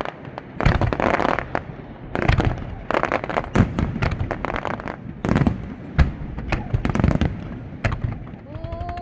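Aerial fireworks bursting close overhead: a rapid run of sharp shell bangs, with showers of crackle between them. The sharpest bang comes about six seconds in, and rising whistles start just before the end.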